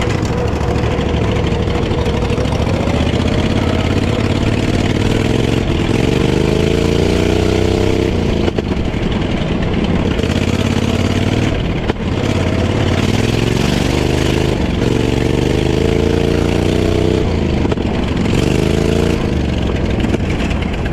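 Off-road lawnmower's engine running under load and revving up and down: its pitch climbs about four times, and each climb ends in a sudden drop as the throttle comes off.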